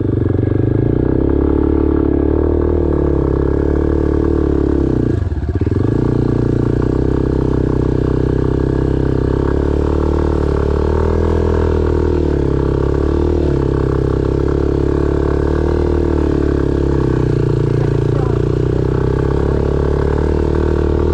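Single-cylinder dual-sport motorcycle engine running hard under load, its revs rising and falling. About five seconds in the revs briefly drop and come back up.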